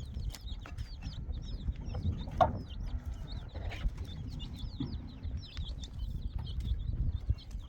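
Farmyard chickens clucking and cheeping, a steady stream of short high calls, with a few knocks, the loudest about two and a half seconds in.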